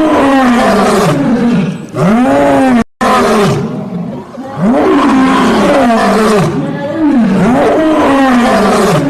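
A large animal calling over and over, each call a loud pitched cry that rises and falls, repeating about once a second, with a short break about three seconds in.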